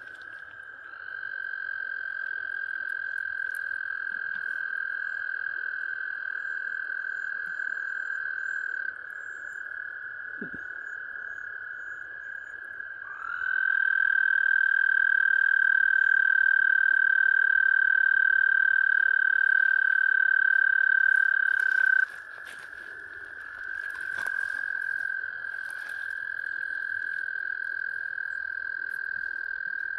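Male frog calling close by: a series of long, steady, high-pitched trills, each lasting several seconds with short breaks between them; the middle trill is the loudest.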